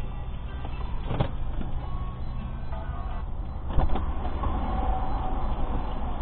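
Vehicle driving, recorded by a dashcam: a steady low engine and road rumble, with a short knock about a second in and a louder sharp knock a little before four seconds.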